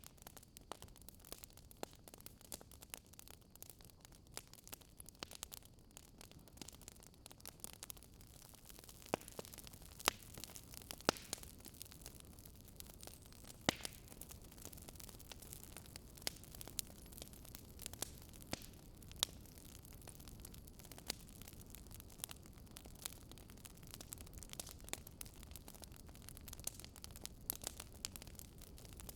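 Wood fire crackling in a fireplace: irregular sharp pops and snaps, some louder than others, over a faint steady hiss.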